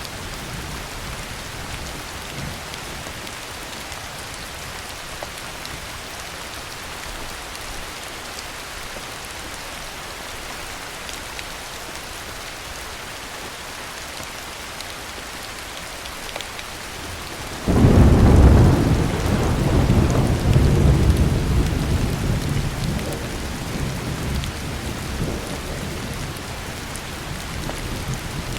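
Steady heavy rain, then a thunderclap about two thirds of the way in that starts suddenly and rumbles deep and loud for several seconds before slowly dying away under the rain.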